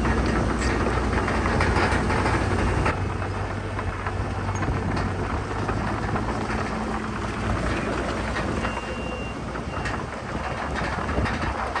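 Heavy earthmoving machinery at work: diesel engines running under a continuous clanking and crunching of tracks and rock. A reversing alarm beeps briefly at the start and again about nine seconds in.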